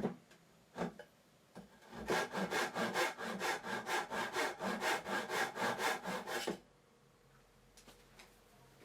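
Tenon saw cutting off the protruding end of a wooden spline: a couple of starting strokes, then a steady run of short, rapid back-and-forth strokes from about two seconds in, stopping about two-thirds of the way through.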